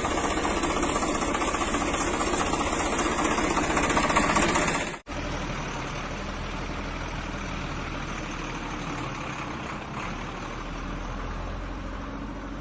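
Engine running steadily at idle with a knocking chug. About five seconds in there is an abrupt cut, and the same kind of engine sound carries on more quietly.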